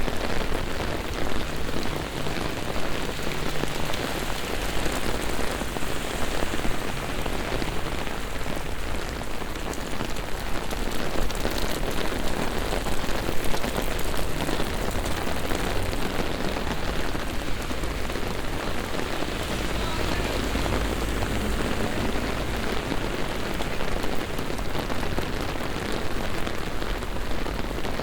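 Rain falling steadily on city streets, a dense even hiss and splash, with a low rumble swelling briefly about two-thirds of the way through.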